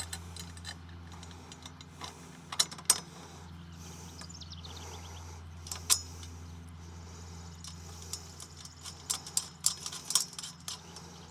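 Metal parts of a non-penetrating roof mount clinking and clicking as a tripod leg is bolted into the frame with carriage bolts and lock nuts. The clicks are scattered: a pair about two and a half seconds in, one near six seconds, and a cluster near the end, over a steady low hum.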